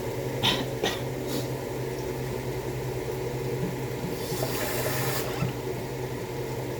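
Water being run or poured for a second or so, about four seconds in, after a few sharp clicks of a utensil on cookware, over a steady low hum.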